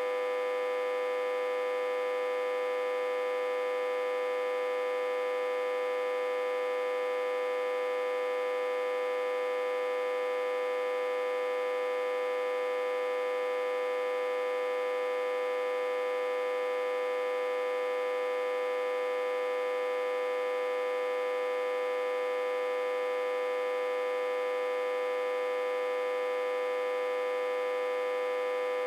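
Autotransformer humming steadily, a buzzing tone with many overtones that never changes in pitch or loudness. It is reverse-connected to a step-down transformer with about 60–80 V on the input.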